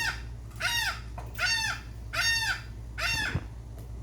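Seagull calling over and over: about five loud calls, evenly spaced under a second apart, each one rising and then falling in pitch.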